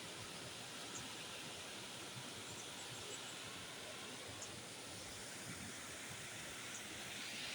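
Small forest waterfall: a steady rush of falling water, with a few faint high ticks over it.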